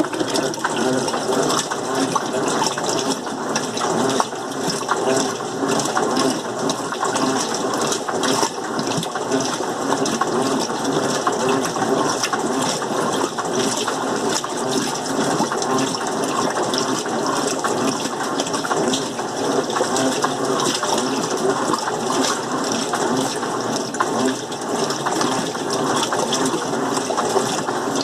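Electrolux LM08 washing machine filling with water at the start of a rinse stage: water gushing steadily into the tub.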